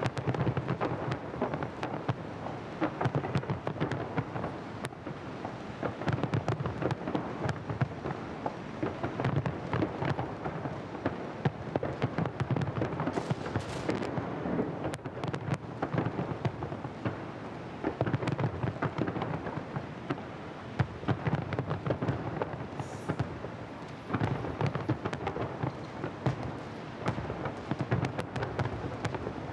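Fireworks display: a dense, continuous run of bangs and crackles, with deeper booms every few seconds.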